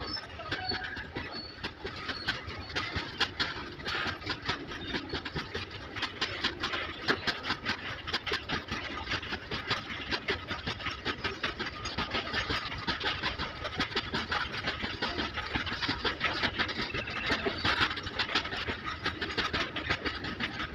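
Goods train of covered and open freight wagons rolling past, steel wheels clattering over the rail joints in a dense, continuous run of clicks and knocks.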